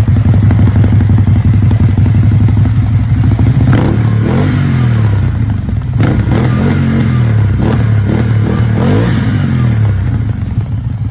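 Can-Am Spyder RT three-wheeler running through an aftermarket GPR muffler. It idles steadily, then the throttle is blipped several times, the engine note rising and falling with each rev.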